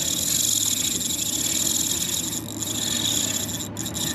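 Fishing reel drag buzzing steadily as a hooked shark takes line, with a steady low boat-engine hum underneath.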